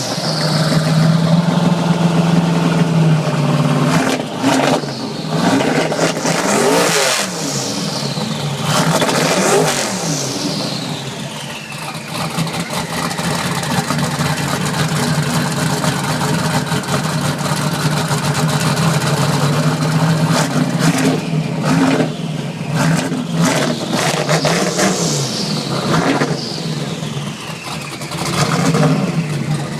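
Twin-turbo Chevrolet Silverado pickup engine idling and being revved up several times in short free-revs, with a high turbo whistle falling away after some of the revs.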